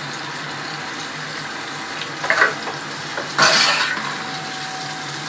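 Onions frying in hot oil in a pan: a steady sizzle, flaring louder about three and a half seconds in, with a brief clink of a utensil a little after two seconds.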